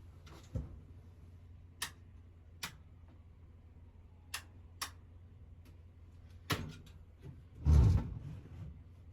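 Scattered sharp knocks and clicks of objects being picked up and set down inside a motor home, with one heavier thump near the end, over a steady low hum.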